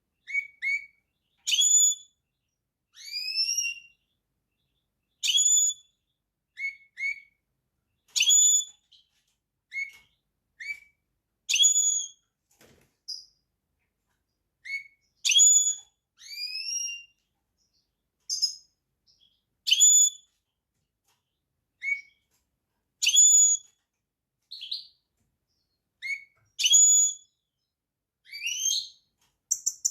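A small finch singing in short, separate phrases of clear whistled notes, some sliding upward in pitch, with brief pauses between phrases.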